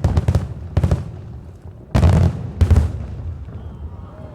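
Aerial firework shells bursting: a rapid cluster of booms at the start, then single booms just before one second, at about two seconds and near three seconds, each ringing on briefly.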